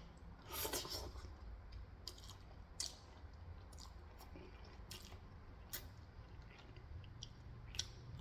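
Close-miked eating sounds: soft wet chewing of pancit canton noodles, with scattered mouth clicks and smacks and a louder wet squish about a second in.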